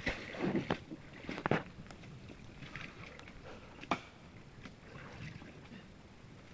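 Footsteps and scuffling along a creek bed, with a handful of sharp knocks or snaps, the loudest about four seconds in.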